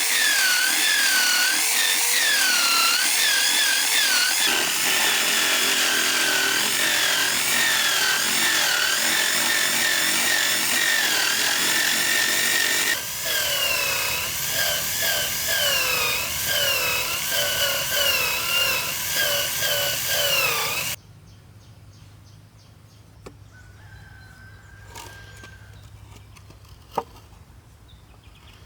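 Power tool cutting bamboo, its motor pitch dipping and recovering over and over as it bites into the cane. It stops abruptly about three-quarters of the way through, leaving a faint hum and a few light knocks.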